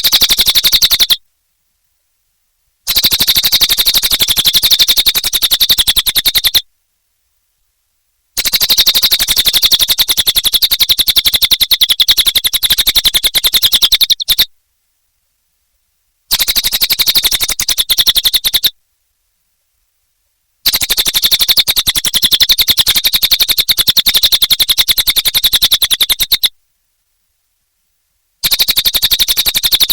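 Cililin bird song: a rapid, buzzy trill of fast clicking notes with a high, ringing edge. It comes in bursts of about two to six seconds, separated by roughly two-second gaps of dead silence.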